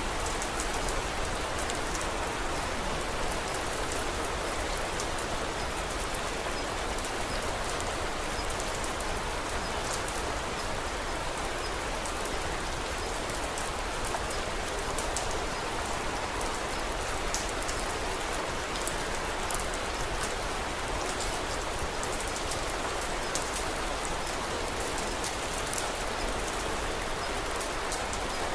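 Steady rain falling on a surface: an even hiss of drops with scattered faint, sharp ticks.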